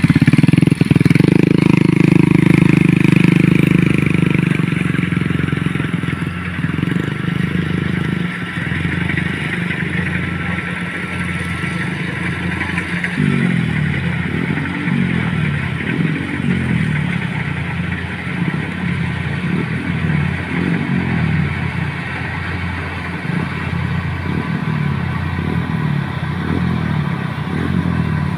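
Motorcycle engine running under load, steady at first, then revving up and down over and over from about halfway through, with some rattling.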